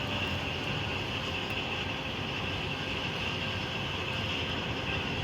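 Train at a railway station, a steady low rumble with a constant high hiss over it.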